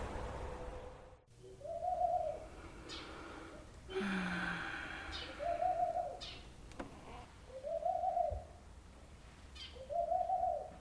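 A steady background hum cuts off about a second in. Then a bird calls four times: short hoot-like notes that rise and fall, a couple of seconds apart, with a few faint high chirps between them.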